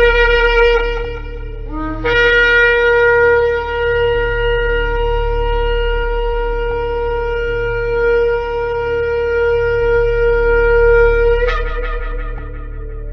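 A shofar being blown: a blast that stops about a second in, then a short low note sliding up into one long held blast of about nine seconds. The long blast breaks sharply upward at its end and dies away with an echo.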